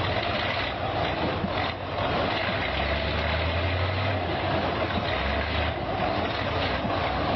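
A motor vehicle's engine running amid steady traffic and road noise, the low engine hum swelling for about a second a few seconds in.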